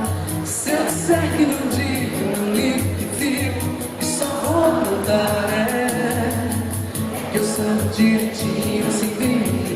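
Live band playing a Brazilian pop song in concert, with a pulsing bass, steady percussion and singing over it.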